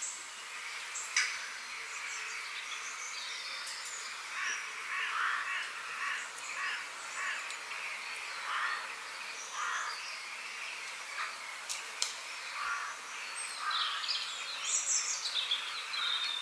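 Wild birds calling and chirping, with a run of harsher calls for several seconds in the middle, over a steady outdoor hiss. Two sharp clicks, one about a second in and one near the end.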